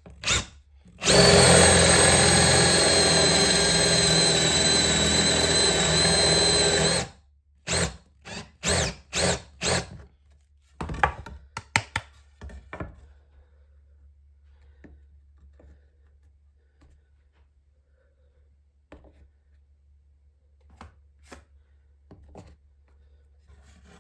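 Makita 18V cordless drill boring a 25 mm Forstner bit into softwood: one long steady run of about six seconds, then five short bursts. A few sharp knocks follow, then only faint scattered clicks.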